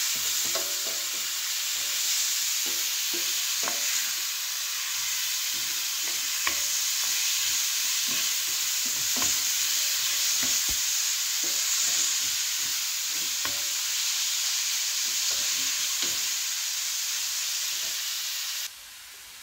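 Food sizzling as it fries in oil in a pan: a steady hiss with scattered light knocks of a utensil stirring. The sizzle cuts off suddenly near the end.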